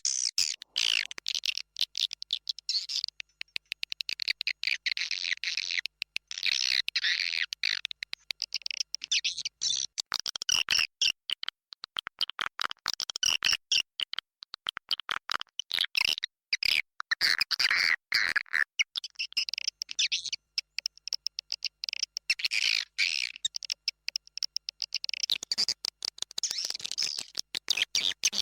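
Many swiftlets twittering together in dense, rapid overlapping high chirps and trills with brief gaps. This is a recorded swiftlet calling sound of the roosting ('inap') kind, played to lure swiftlets to a nesting house.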